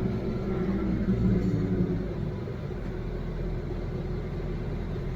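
Diesel engine of heavy equipment running, a steady low rumble that is stronger for the first two seconds and then settles lower.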